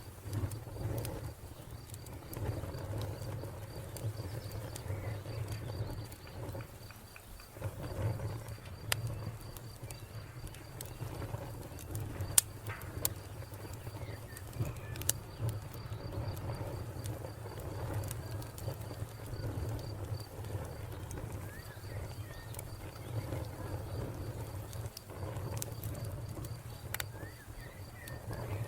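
Wood fire crackling, with sharp pops every few seconds over a low, flickering rumble. A cricket chirps in a fast, even pulse, pausing briefly about halfway.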